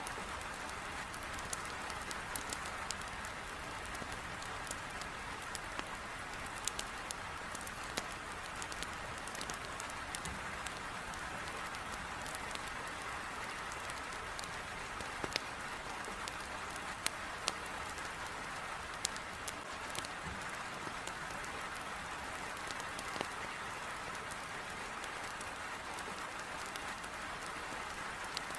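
Heavy rain beating on a window, a steady hiss, mixed with a wood fire crackling in a fireplace, with many sharp pops scattered throughout.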